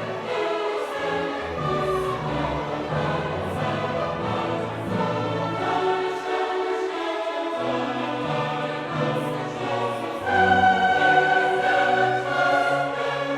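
Classical choral music: a choir singing with an orchestra, swelling louder with long held notes in the last few seconds.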